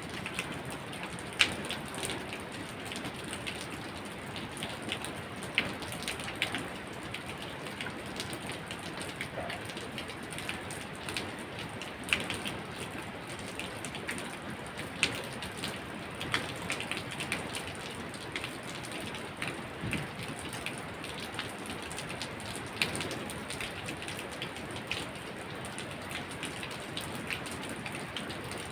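Steady rain falling, an even hiss with individual drops tapping sharply and irregularly on a surface.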